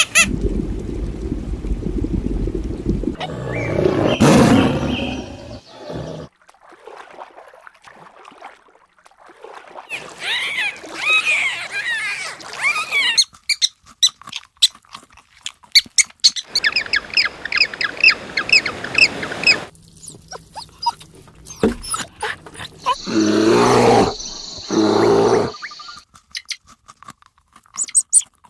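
A run of different animal calls, one clip after another: a low rumble at first, then chirping, a row of repeated short calls, and two loud, long calls near the end.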